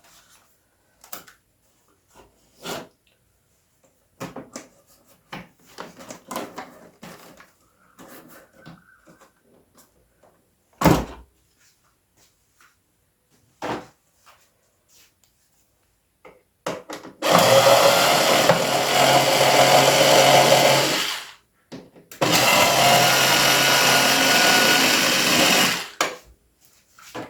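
Clicks and handling noises on the keyboard's plastic case, with one sharp knock about eleven seconds in. Near the end a handheld electric tool runs in two steady bursts of about four seconds each.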